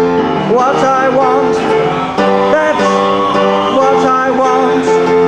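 A man singing a song to a plucked-string accompaniment, with a wavering melody over held chords.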